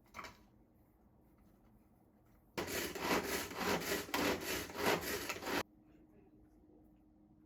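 Rapid, rough scraping strokes for about three seconds, starting a little over two seconds in and cutting off suddenly.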